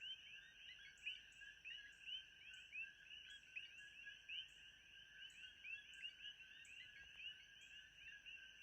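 Faint chorus of many small calling animals: short rising chirps overlap several times a second over a steady high-pitched hum.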